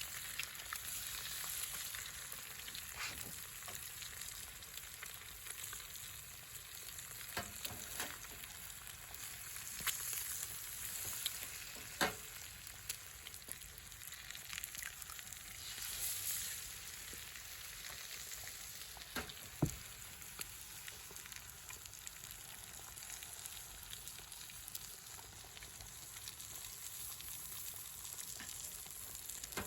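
Food sizzling in a frying pan: a steady hiss with scattered crackles and now and then a sharp pop.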